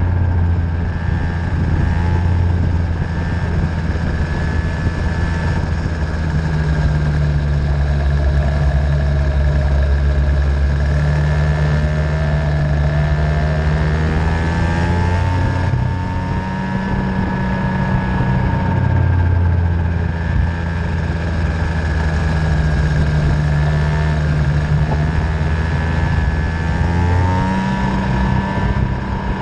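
50cc racing engine running on track, its pitch rising and falling as the throttle is worked, over a steady low drone.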